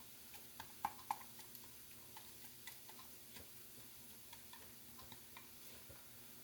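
Faint light clicks and taps of a utensil against the pan, about three or four a second, as scrambled eggs are stirred into cauliflower fried rice; a few louder taps about a second in.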